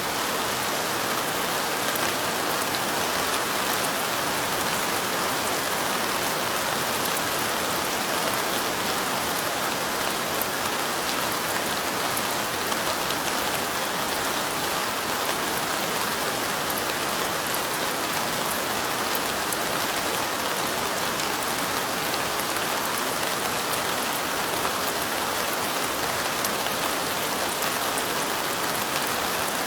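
Steady rain falling, an even continuous patter of drops with no change in strength.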